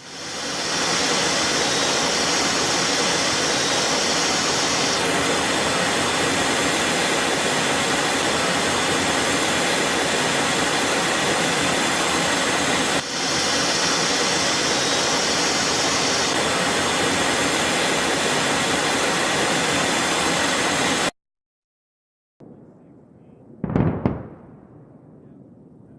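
Jet engine roar: a steady, loud rushing noise that cuts off suddenly about 21 seconds in. A single short, loud blast follows a couple of seconds later.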